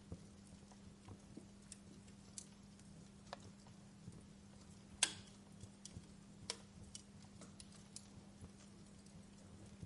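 Wood fire crackling: faint irregular pops and snaps over a soft steady hiss and low hum, with the loudest snap about five seconds in.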